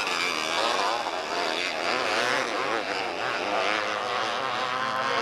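Engines of several small oval race cars running hard together, their buzzing pitches rising and falling as the cars lap and go through the turns.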